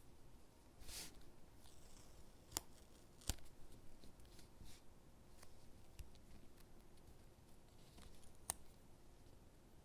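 Quiet sticker and paper handling: a short peeling rustle about a second in, faint swishes, and a few sharp little ticks as stickers are pressed onto paper gingerbread cutouts.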